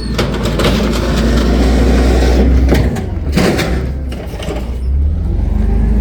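A motor vehicle running with a heavy low rumble, and several sharp knocks and clatters about three seconds in.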